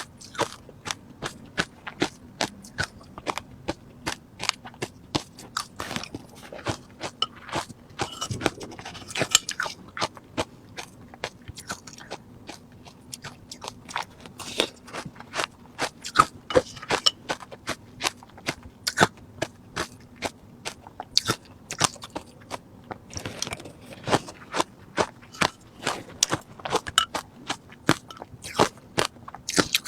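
Refrozen crushed ice being bitten and chewed close to the microphone: rapid, irregular crunching with sharp cracks, several a second.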